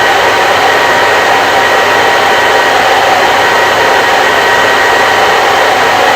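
Hair dryer running continuously: a steady, loud blowing whoosh with a faint constant whine from the motor.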